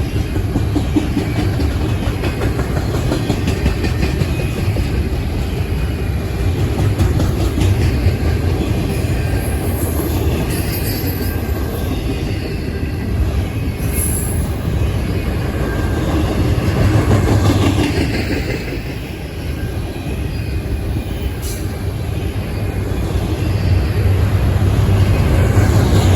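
Long double-stack intermodal freight train's cars rolling past, a steady loud rumble of wheels on rail with a few brief high-pitched wheel squeals.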